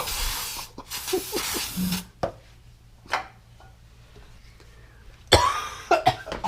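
Aerosol spray can hissing in two bursts of about a second each, then a few faint knocks and, about five seconds in, a person coughing.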